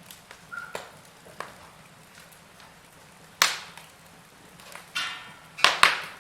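Wood fire in a fireplace crackling, with scattered sharp pops: a loud one about three and a half seconds in and two loud ones close together near the end, just after a brief hiss.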